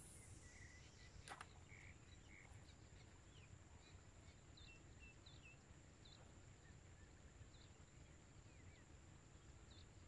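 Near silence, with faint, short bird chirps scattered through it over a low outdoor rumble and a faint steady high tone. One light click a little over a second in.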